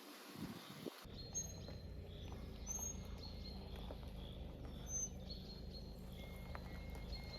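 Outdoor forest ambience: scattered bird chirps and short whistled notes over a low steady rumble, after a few soft thumps in the first second.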